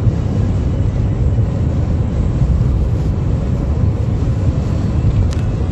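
Strong wind in a dust storm, a steady loud rush with a heavy low rumble.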